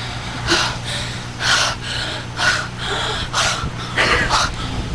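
A person breathing hard and loudly, panting about once a second, out of breath from running. A steady low hum runs underneath.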